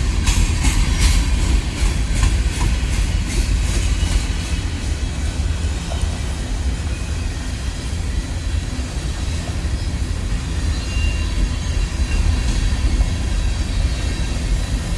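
A train rolling past with a steady low rumble, its wheels clicking rhythmically over rail joints in the first few seconds.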